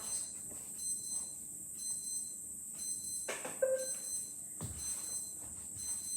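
An alarm beeping with a steady high-pitched tone. A click about halfway through and a low thump a second later.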